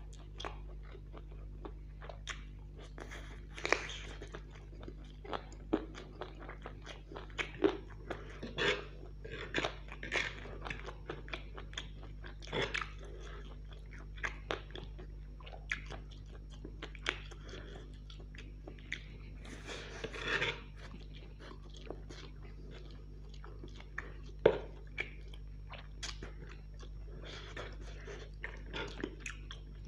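Close-up chewing and biting of fried chicken and chow mein noodles: irregular mouth clicks and crunches, with a few longer noisy bursts, over a steady low hum.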